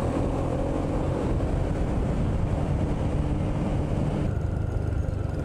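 Motorbike engine running with wind and road noise while riding in traffic, a steady low drone under a hiss. The higher hiss drops away about four seconds in.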